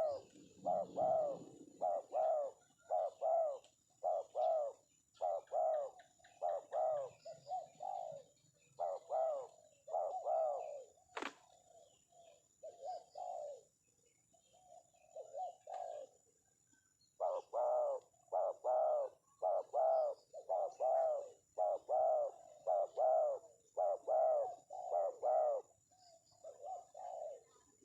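Spotted dove (tekukur) cooing over and over in runs of short notes, with a pause in the middle. A single sharp click about eleven seconds in.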